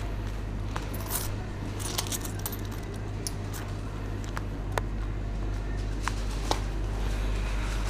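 Scattered light clicks and clinks of small items being handled at a shop counter, over a steady low hum.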